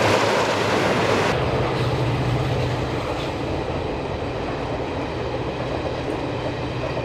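A train running: a steady loud rush that changes abruptly about a second in to a duller rumble with a steady low hum.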